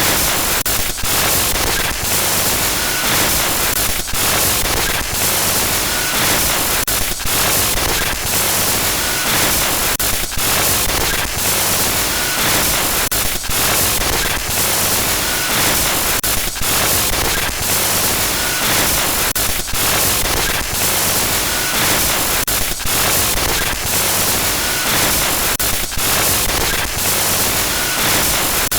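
Harsh glitchy static noise, a loud steady hiss across all pitches broken by brief dropouts and crackles. The pattern loops about every three seconds, with a faint short beep once per cycle.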